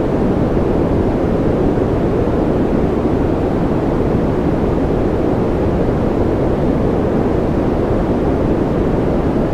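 Continuous white-noise sleep track: an even, unbroken rush that is strongest in the low and middle pitches, with little treble.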